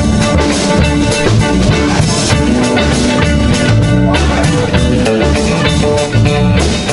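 A band playing an upbeat groove with guitar and drum kit, steady beat and many instruments together.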